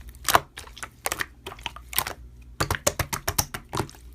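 Sharp, irregular clicking: a few separate clicks at first, then a quick rapid run of clicks from about two and a half seconds in.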